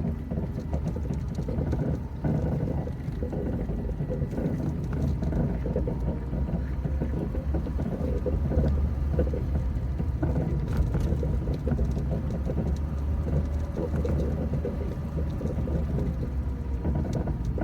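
Hollow metallic banging and thumping from a car: irregular knocks over a steady low rumble.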